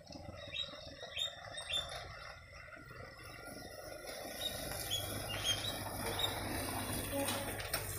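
A bird chirping in short, high notes, a few at a time, over outdoor background noise; from about five seconds in a steady low hum joins it.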